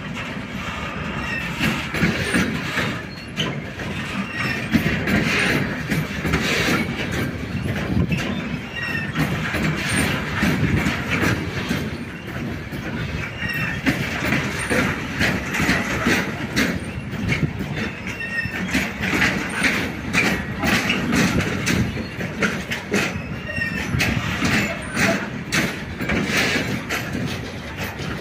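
Train rolling through a station, its wheels clattering over rail joints and points with many sharp clicks, and brief high wheel squeals now and then.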